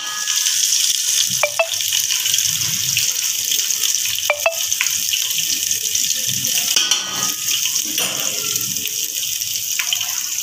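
Sliced onions sizzling steadily in hot oil in an aluminium pot, with garlic-ginger paste and turmeric added to the frying. A few short scrapes of the metal spatula against the pot, about a second and a half and four seconds in.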